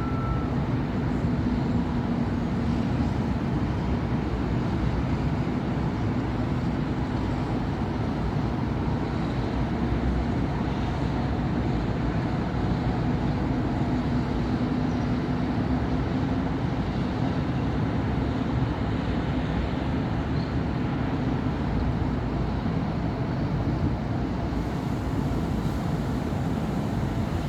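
Steady city road traffic: a continuous low rumble of car and bus engines and tyres on a busy avenue. A low engine hum stands out for roughly the first half.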